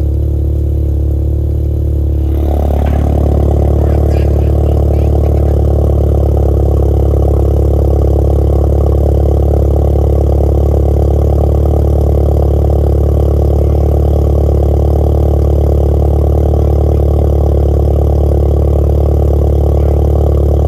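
Vehicle engine running through its exhaust with a steady drone; it gets louder about two seconds in and then holds at that level.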